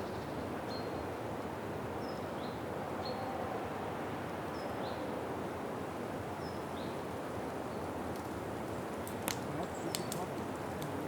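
Outdoor ambience: a steady rushing background with a small bird giving short, high chirps about once a second, and a few sharp clicks near the end.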